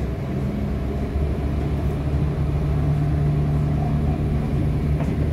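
Diesel multiple unit train heard from inside the carriage as it pulls away: a steady engine and traction hum whose note steps up shortly after the start, then holds as the train gathers speed.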